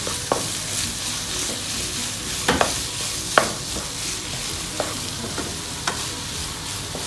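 Beef roast frying in a nonstick pan in its final, almost-ready stage: a steady sizzle while a wooden spatula stirs and scrapes the meat, with a few sharp knocks of the spatula against the pan.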